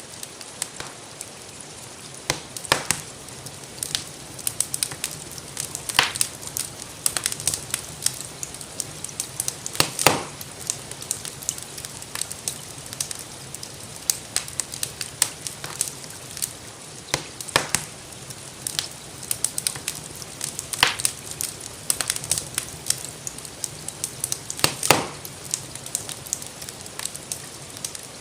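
Wood fire crackling, with irregular small snaps and a handful of louder pops, over a steady hiss of rainfall.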